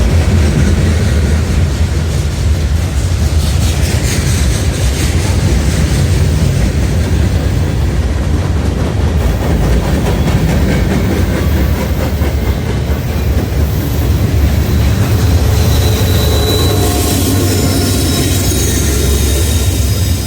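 Freight train rolling past, a steady heavy rumble of railcars on the rails with wheel clatter. Thin wheel squeals come in over the last few seconds.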